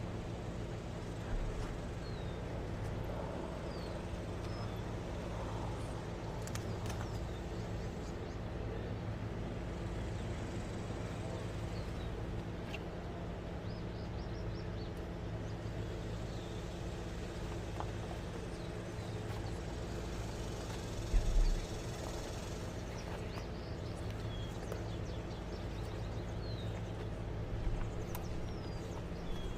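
Outdoor ambience: a steady low mechanical hum, with scattered short bird chirps and one brief knock about 21 seconds in.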